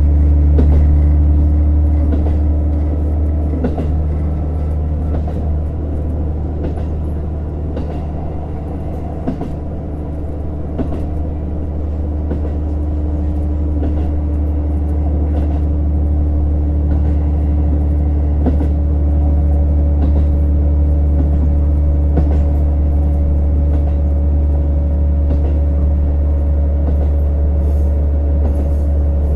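Inside a JR Hokkaido KiHa 150 series diesel railcar under way: a steady low drone from the diesel engine and running gear, with a few held tones, and scattered short clicks and knocks from the wheels on the rails.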